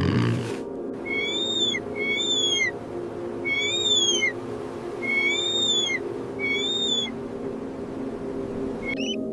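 A high, whistled animal call, repeated five times about a second apart, each note about half a second long, rising and then falling, over a steady low drone.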